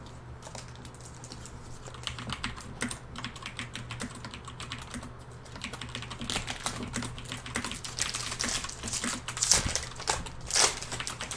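Rapid typing on a computer keyboard, with quick clicking keystrokes that get busier after the first couple of seconds and two heavier strokes near the end.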